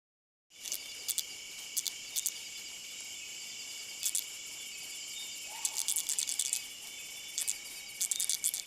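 Streaked tenrec stridulating: scattered clusters of quick, dry clicks made by rubbing its back quills together, over a steady high trill of insects. The sound starts about half a second in.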